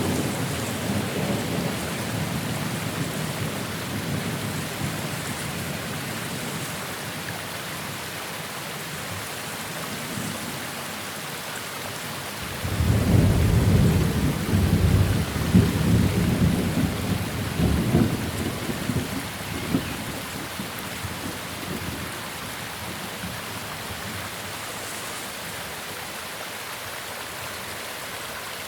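Thunderstorm: rain falling steadily while a rumble of thunder dies away over the first few seconds; about twelve seconds in a new peal of thunder breaks and rolls with several cracks before fading, leaving the rain.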